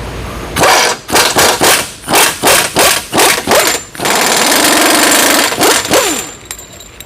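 Impact wrench working a subframe bolt loose: a quick string of short trigger bursts, each trailing off in falling pitch, then a steady hammering run of about a second and a half, and two more brief bursts near the end.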